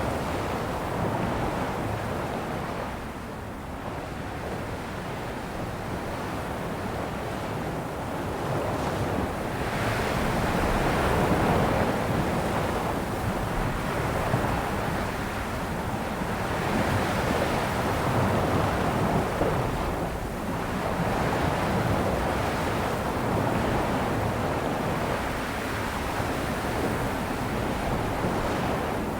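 Ocean waves breaking and washing on a shore, the surf swelling and easing every few seconds, with wind buffeting the microphone.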